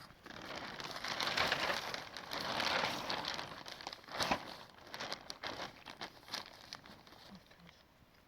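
Crinkling and rustling of something being handled, loudest in the first half, followed by scattered light clicks and knocks that thin out near the end.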